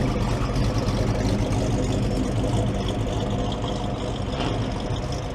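A car engine running steadily at idle, growing a little quieter near the end.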